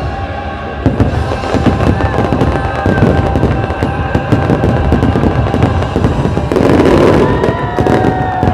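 Fireworks display going off in quick succession, a dense run of bangs and crackling, with the show's music playing underneath. The loudest, densest burst comes about three-quarters of the way through.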